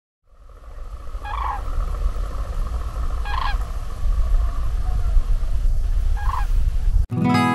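A few large birds calling in flight, three loud calls a couple of seconds apart, over a steady low wind rumble. Guitar music cuts in right at the end.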